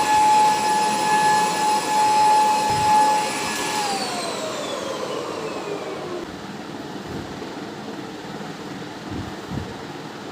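A small electric appliance motor running with a steady high whine, then switched off about four seconds in and winding down over the next two seconds, its pitch falling as it slows.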